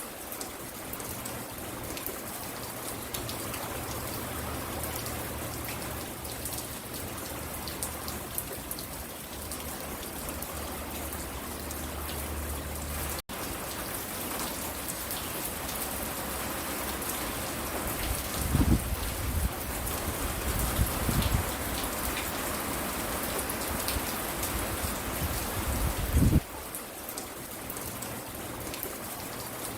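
Steady rain falling and pattering on surfaces close by. A few brief low rumbles come through, the last near the end, and the sound drops out for an instant about 13 seconds in.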